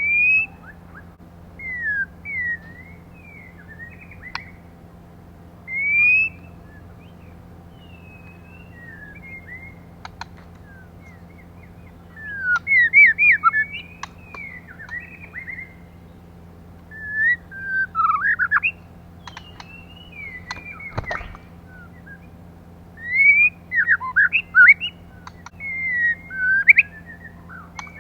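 Female white-rumped shama calling: short sliding whistled notes and quick runs of notes in bursts of a few seconds, with pauses between. A steady low hum runs underneath, and a single click comes about three-quarters of the way through.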